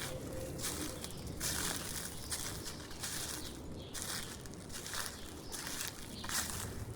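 Footsteps crunching through dry fallen leaves at a steady walking pace, a crunch roughly every half to one second.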